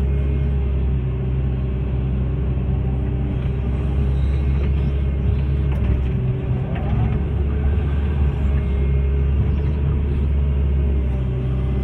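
Hitachi hydraulic excavator's diesel engine running steadily under work, a deep even rumble, with a few faint clicks in the middle.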